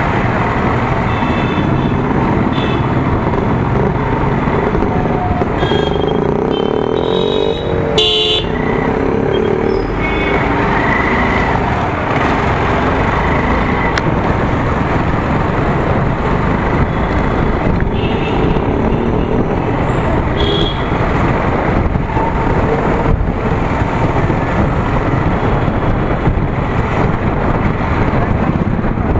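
Steady road and traffic noise heard while riding a motorcycle through traffic, with short horn toots several times, clustered in the first ten seconds and once more about twenty seconds in.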